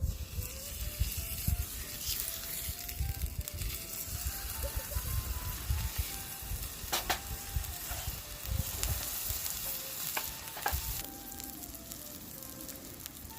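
Meat sizzling as it cooks over a wood fire, a steady hiss with a few sharp pops, under a soft background melody.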